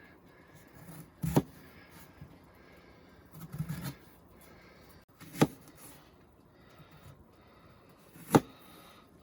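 Three sharp knocks a few seconds apart, with a short stretch of scraping and rustling between the first two, as cooking gear is handled to start a meal.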